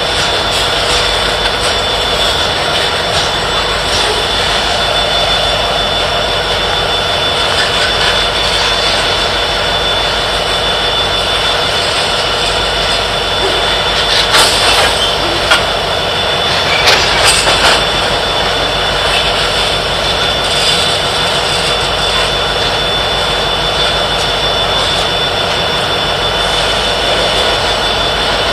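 Freight train of covered hopper cars rolling past: a steady rumble and clatter of wheels on rail. It gets briefly louder twice about halfway through, with sharper metallic sounds.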